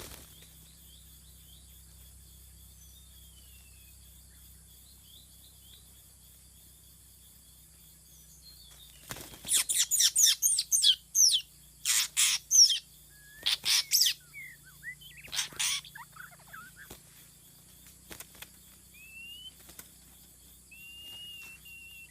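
Songbird calls: faint short chirps at first, then from about nine seconds in a run of loud, harsh calls in several bursts lasting some seven seconds, then thin short whistles near the end.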